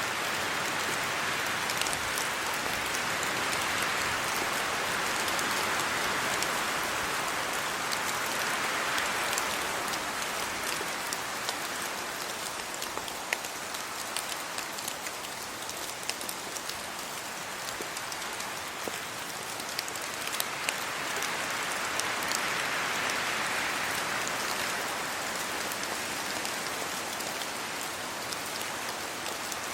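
Steady rain falling on leaves and the road, with many individual drop ticks through the hiss. The hiss swells and eases twice, as gusts of wind move through the trees.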